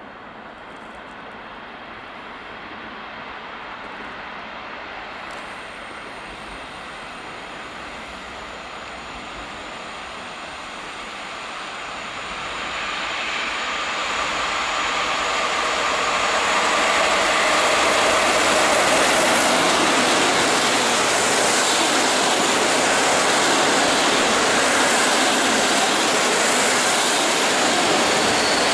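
PKP InterCity passenger train approaching and passing close by, its wheels rumbling on the rails. The sound grows louder from about halfway through and stays loud as the carriages roll past.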